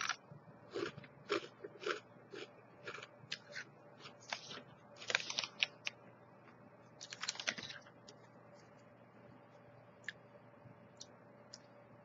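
A person chewing crunchy puffed chickpea snacks (Hippeas white cheddar puffs), with a quick run of crisp crunches that thins out after about eight seconds.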